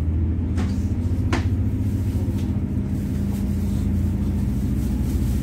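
Moving train heard from inside the carriage: a steady low rumble and hum of the running train, with two short clicks about half a second and a second and a half in.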